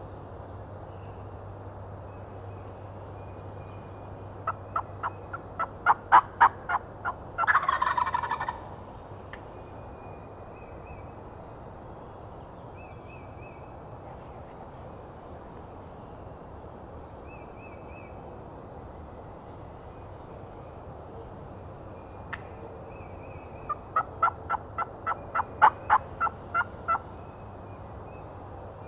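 Wild turkeys calling close by: a run of about ten sharp, evenly spaced calls, growing louder and ending in a gobble, then another similar run near the end. A small bird chirps faintly in between.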